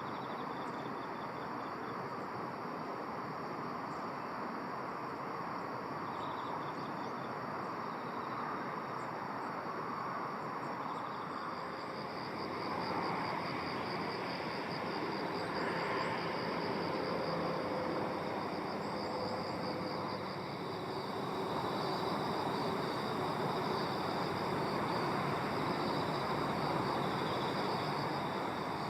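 Insects trilling in fast, high, pulsing runs that come and go at first and then carry on without a break, over a steady rushing background noise.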